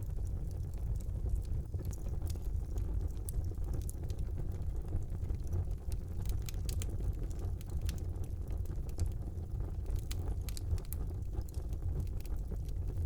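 Fire burning in a brick fireplace: a steady low rumble of the flames with scattered crackles and pops, a few coming in quick clusters.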